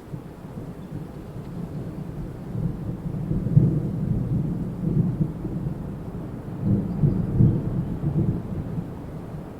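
Wind gusting through trees, a low rushing noise that swells twice, first around the middle and again later, then eases near the end.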